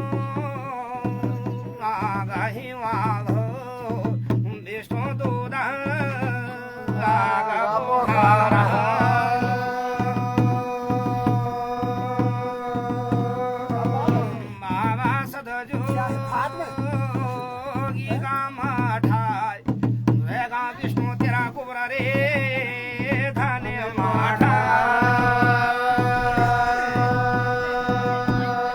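Uttarakhandi jagar devotional folk music: singing over a steady drum rhythm, with long held melodic notes.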